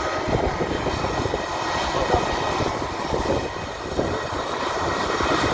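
Airbus A320-200's twin jet engines at taxi power: a steady rush of engine noise with a faint high whine running through it.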